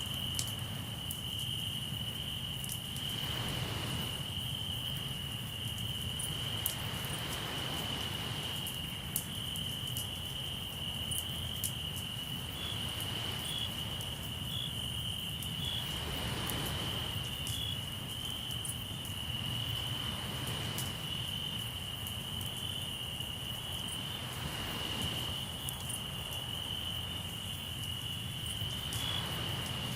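Crickets chirring in one steady high-pitched trill, with waves washing in every four or five seconds and scattered sharp crackles from a campfire.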